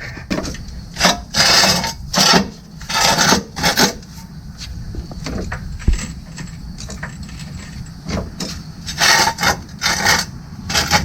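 A 3-ton floor jack being worked under the car: a series of short scraping strokes, bunched in the first few seconds and again near the end, with a single dull thump about six seconds in.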